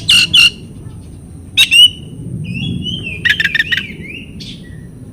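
Oriental magpie-robin (kacer) calling: three quick harsh notes, then sharp calls, a short whistled glide and a rapid run of notes, the kind of song played as a lure to set caged magpie-robins singing.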